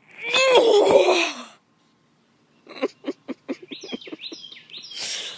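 A loud drawn-out vocal sound from a person, falling in pitch, lasting about a second and a half. After a pause comes a quick run of sharp clicks and short chirping tones, about five a second, then a brief hiss near the end.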